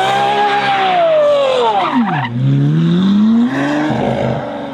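A vehicle engine revving: its pitch rises a little, drops sharply about two seconds in, then climbs again.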